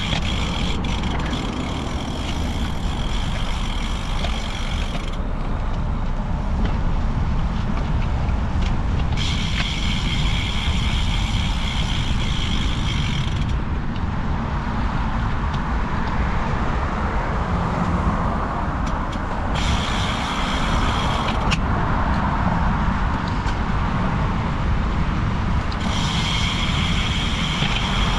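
Wind rushing over the microphone of a moving bicycle, with the rear freehub buzzing in four stretches of a few seconds while the rider coasts, cutting out whenever pedalling resumes.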